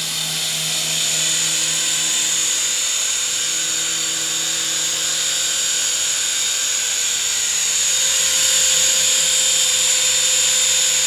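Syma S111G mini RC helicopter's small electric motors and rotors whining at a steady high pitch, growing louder about eight seconds in.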